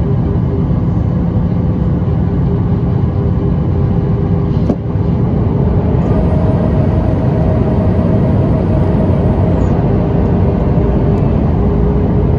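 Steady engine and airflow drone of a Boeing 737-800's CFM56-7B engines inside the passenger cabin, with a few steady whining tones in it. A single click comes about five seconds in, and a faint high whine joins about six seconds in and stops about three and a half seconds later.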